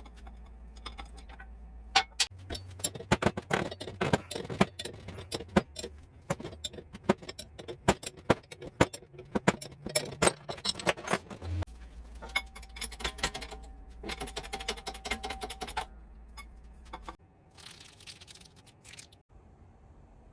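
Metal tools and parts clinking and rattling in quick, irregular clicks, easing off after about 16 seconds, over a steady low hum.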